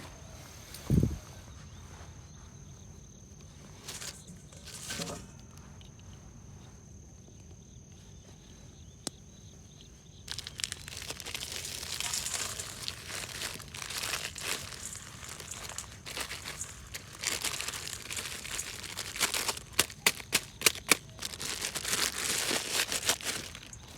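Crinkling, rustling handling noise close to the microphone, starting about ten seconds in and lasting some thirteen seconds, with a quick run of sharp clicks near the end. A single low thump comes about a second in.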